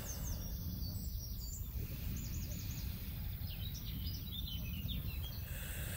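Small birds chirping in several short runs of quick, high, falling notes, over a steady low outdoor rumble.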